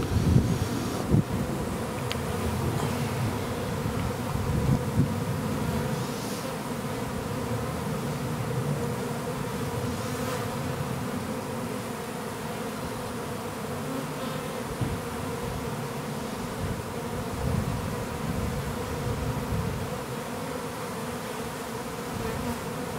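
A honeybee swarm buzzing: the massed, steady hum of many bees crowding into a full collection box. A couple of brief thumps stand out in the first seconds.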